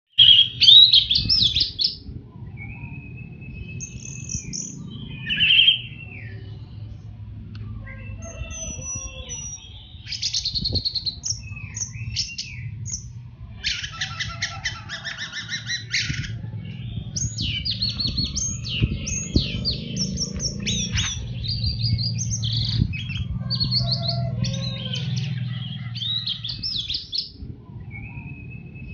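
Orange-headed thrush singing a long, varied song of quick whistled and chattering phrases in the 'teler' style, over a steady low background hum.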